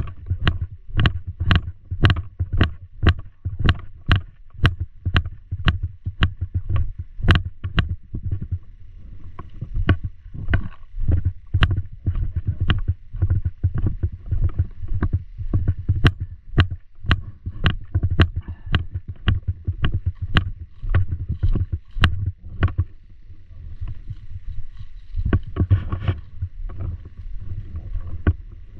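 Footsteps of a paintball player on the move, heard through the jolts of a body-worn camera, with gear knocking at each step. For about eight seconds the steps come steadily at about two a second, then they turn slower and uneven.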